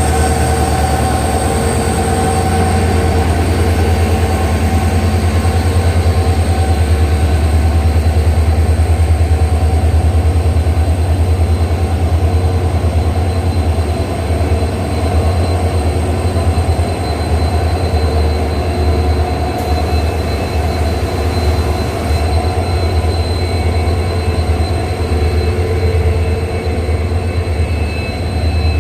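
Freight train of BCNA covered wagons rolling past at slow speed: a steady heavy rumble of wheels on the rails, with thin steady squeals from the wheels.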